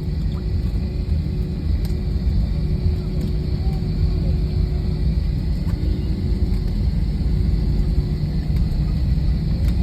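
Airliner cabin noise while taxiing to the gate after landing: a steady low rumble from the engines and airframe, with a faint steady hum above it.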